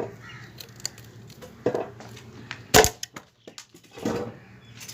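Scattered faint clicks and rustles, with one sharp, loud knock a little under three seconds in, the loudest sound here. It fits a slingshot being shot at the target.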